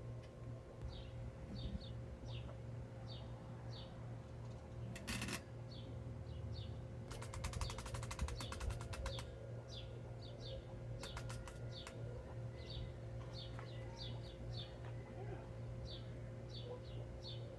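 A small bird chirping over and over, short high calls that slide down in pitch, over a steady low hum. Two spells of fast clicking come about halfway through.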